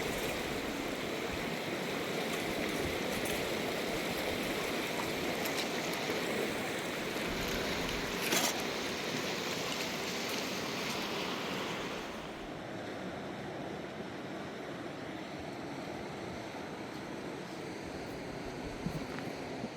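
Mountain river water rushing steadily. About twelve seconds in the rush turns duller and a little quieter, and a single brief knock comes about eight seconds in.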